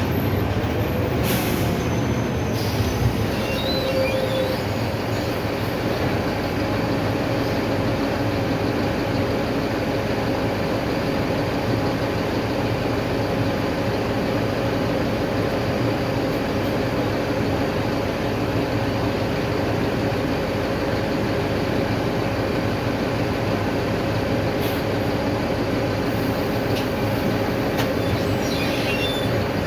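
Cabin noise inside a Mercedes-Benz OF-1519 diesel city bus on the move: the engine runs steadily under road noise. A few short high squeaks or rattles come from the body near the start and again near the end.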